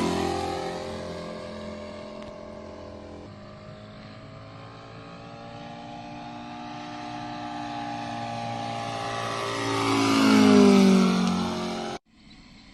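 Large-scale model aircraft's gas radial engine flying past: the engine note falls in pitch and fades as it passes away, runs steady and quieter, then rises and swells to a loud pass about ten seconds in and falls away again. The sound cuts off abruptly near the end to a much quieter background.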